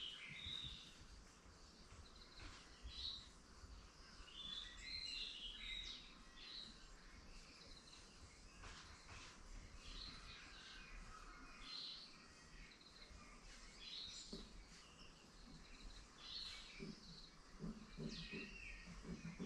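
Faint birds chirping and twittering, short scattered calls from several birds over a low background rumble. A lower-pitched stuttering sound joins near the end.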